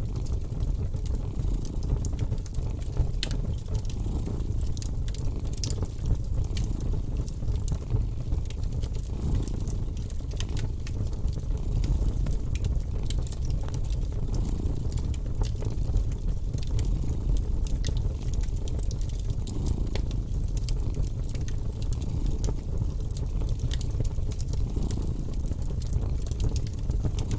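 Wood fire crackling, with frequent sharp pops and snaps, over a steady low rumble of a cat purring.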